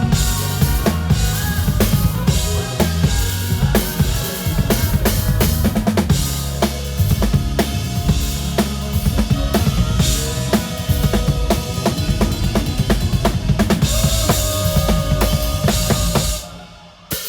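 Drum kit played close up in a live band performance, a steady driving beat under bass and other instruments. Near the end the band stops suddenly for a brief break, then comes back in.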